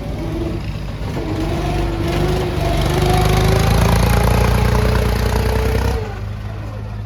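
Tractor diesel engine running hard, its pitch climbing slowly and its sound growing louder for several seconds, then easing back about six seconds in.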